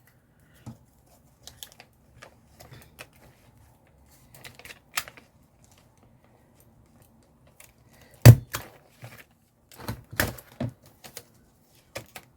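A stapler being pressed through paper: a loud, sharp snap about eight seconds in and a few more clicks about two seconds later, among quieter clicks of paper and tools being handled.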